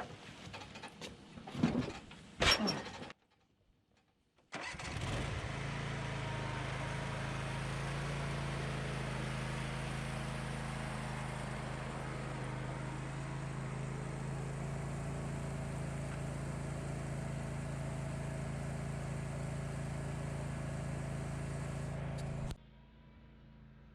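A few sharp knocks, then a riding zero-turn lawn mower's engine running steadily at an even speed for about eighteen seconds, cutting off abruptly near the end.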